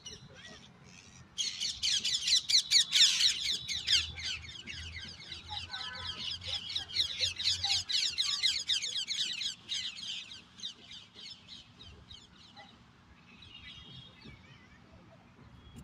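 A flock of small birds chirping in a dense, overlapping chatter. It starts suddenly about a second in and thins out after about ten seconds.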